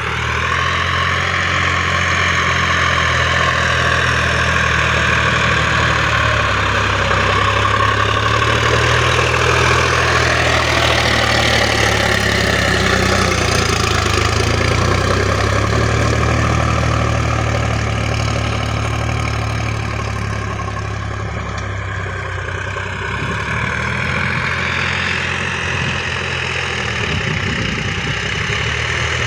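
Sonalika tractor's diesel engine running steadily, easing off slightly for a few seconds past the middle before picking up again.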